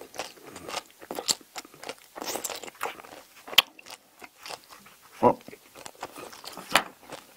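A whole shrimp, shell and head included, being chewed: irregular crisp crunching of the shell, with a few sharp louder cracks spread through.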